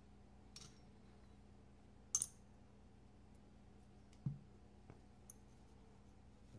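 Faint clicks and taps of small folding-knife parts and tools being handled on a work surface, with a sharp double click about two seconds in and a duller knock a couple of seconds later.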